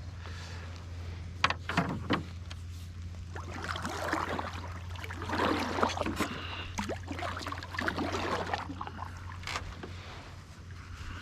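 Canoe paddle strokes: repeated swishing of the blade through the water, with a few sharp knocks about one and a half to two seconds in, over a steady low hum.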